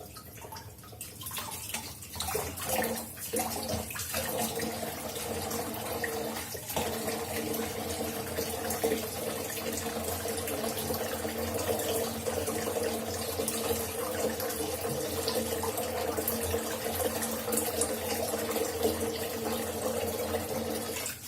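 Kitchen tap running into a sink, a steady splashing stream that comes on after a few seconds of knocks and clatter.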